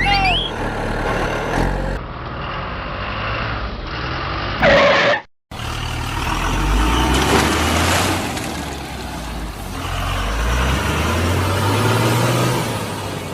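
Truck engine running, rising in pitch as it revs twice in the second half. A short loud hiss comes about five seconds in, and the sound cuts out for a moment just after it.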